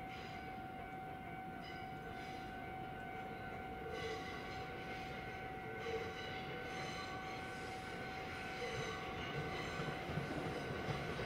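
W7 series Shinkansen train running slowly as it approaches the platform, its sound growing gradually louder, with a steady high-pitched tone and intermittent faint high squeals from about four seconds in.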